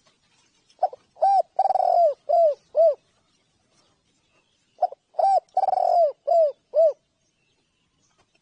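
Spotted dove cooing: two phrases, about four seconds apart, each of five rounded coos with one longer note in the middle.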